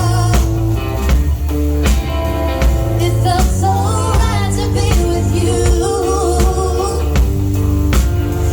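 Live band playing a pop-rock song, with a steady drum beat, bass, guitar and a wavering melody line over the top.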